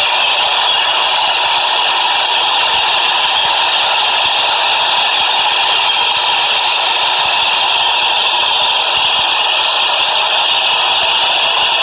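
New York City subway train running, a steady, unbroken rattle and scrape of wheels on rail.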